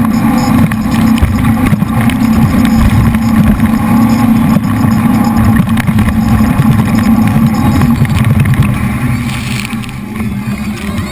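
The jet boat's three V8 engines running hard at speed, a steady heavy rumble. About nine seconds in, the engines ease off and the sound drops.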